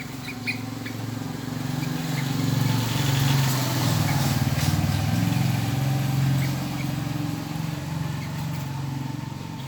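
A motor vehicle engine passing by: a low hum that grows louder over the first few seconds, then slowly fades. A few faint, short high peeps sound over it.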